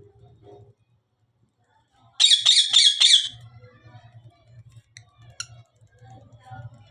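Cockatiel giving a loud, rapid string of harsh squawks for about a second, starting about two seconds in, then two short sharp chirps a couple of seconds later.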